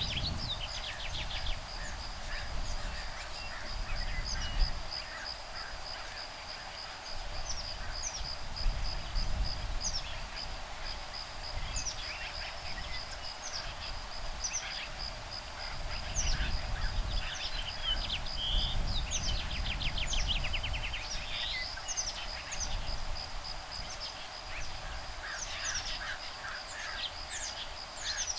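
Woodpeckers calling back and forth from their nests, adult and nestling calls mixed, as short chirps and a few rapid rattling trills. Under them a steady, fast-pulsing high insect trill, and a low rumble of breeze that rises and falls.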